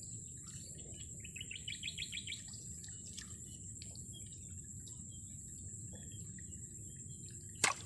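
A small bird gives a quick trill of about ten rapid chirps about a second in, over a steady high-pitched buzz and low outdoor background. A single sharp click comes near the end.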